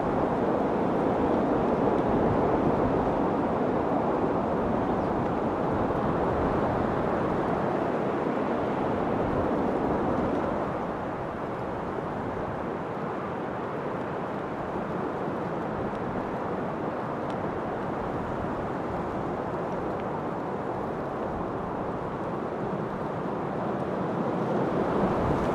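Wind blowing in a steady rushing hiss, easing a little about ten seconds in and gusting up again near the end.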